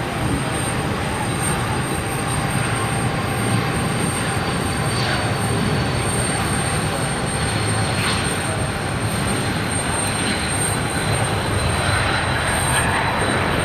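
A BAe 146-300's four turbofan engines running: a steady jet rumble with a high whine held on one pitch.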